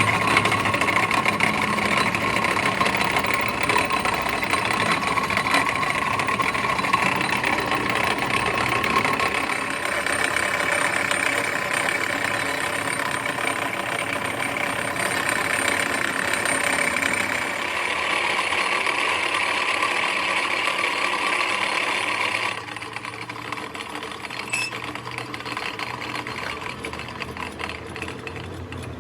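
Workshop machinery running steadily with a fast, fine rattle. The sound shifts a little about ten and eighteen seconds in, then drops noticeably in level a bit over three-quarters of the way through.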